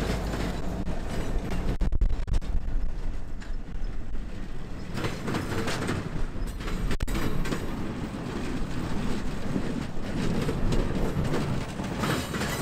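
Train of vintage passenger cars rolling past: steel wheels rumbling steadily on the rails, with a few sharp clicks over the rail joints.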